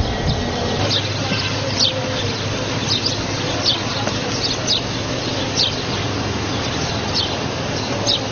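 Short, high bird chirps, each a quick falling note, repeating irregularly about once a second over a steady background hiss.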